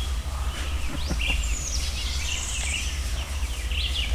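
Songbirds singing in woodland, several short chirping and falling whistled phrases, over a steady low rumble.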